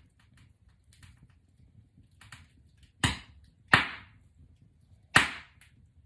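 Box braids being taken down: three sharp swishing rasps, the second and third close together, over faint crackling of hair being handled.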